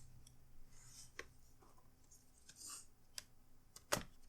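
Plastic pry pick scraping along the laptop's plastic case seam, with a few sharp clicks, the loudest near the end, as the base panel's clips are worked loose.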